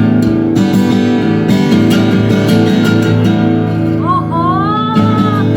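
Guitar strummed, chords ringing on steadily; about four seconds in, a gliding melody line enters above the chords.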